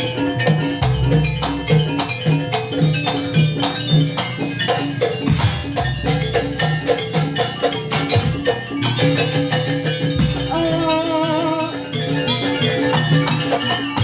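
Live jaranan gamelan music: drums and ringing metal mallet percussion playing a busy, repeating rhythm, with a wavering held melody line for about a second a little past the middle.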